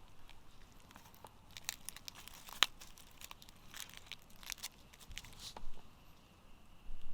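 Rustling and crinkling handling sounds with scattered sharp clicks, the loudest click about two and a half seconds in.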